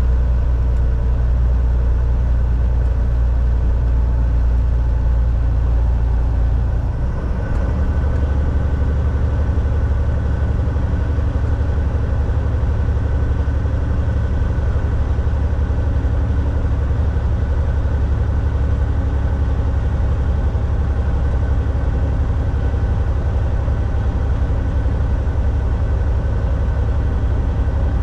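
Volvo VNL 760 semi truck's diesel engine droning steadily while driving, heard from the driver's seat with road noise. About seven seconds in the level dips briefly and the low engine note shifts, then settles into a steady drone again.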